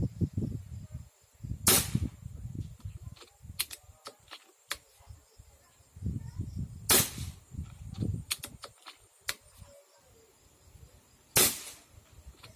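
Three air-rifle shots, each a sharp crack with a short ring-out, about five seconds apart, with smaller clicks between them as the magazine feeds the next shot.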